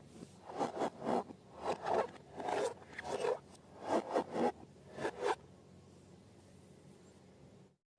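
Hands working slime and balloons, making about a dozen short scraping strokes, many in quick pairs. The strokes stop about five and a half seconds in.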